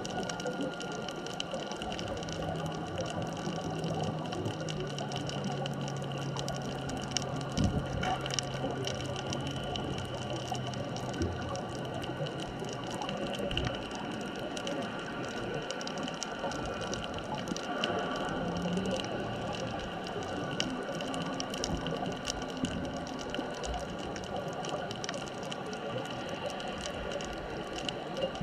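Underwater ambience at depth: a constant fine crackling over several steady humming tones, with a lower drone that comes in about two seconds in and fades out about twelve seconds in.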